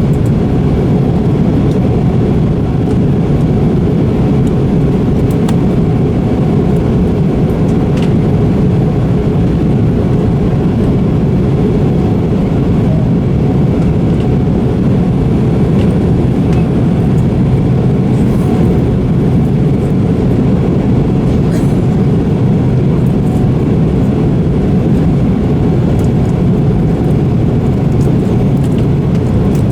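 Jet airliner cabin noise in flight: a steady, loud low drone of engines and airflow, unchanging throughout.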